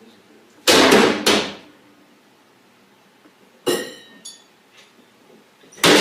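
Kitchen cupboard doors with glass panels being slammed hard: two loud bangs in quick succession about a second in, a sharper bang with a ringing glassy rattle near the middle, and another loud bang at the end.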